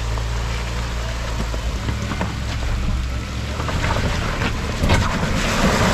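Off-road vehicle's engine running low and steady while water splashes and sloshes around it, the splashing growing louder over the last couple of seconds.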